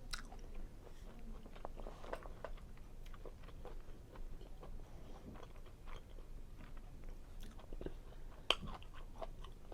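Close-miked chewing of seafood linguine Alfredo: soft, wet mouth sounds broken by many small irregular clicks. There are sharper clicks at the very start and about eight and a half seconds in.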